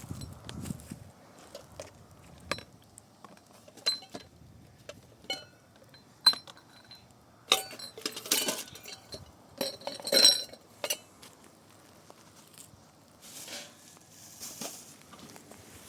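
Dishes and utensils clinking and knocking as they are handled: a string of separate sharp clinks, some with a brief ring, the loudest cluster about halfway through.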